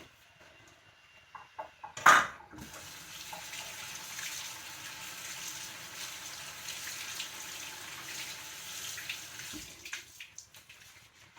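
Kitchen faucet running, rinsing canned black beans in a fine-mesh colander: a steady stream of water starts about two and a half seconds in and is shut off near the end. It comes right after a sharp knock, the loudest moment, about two seconds in.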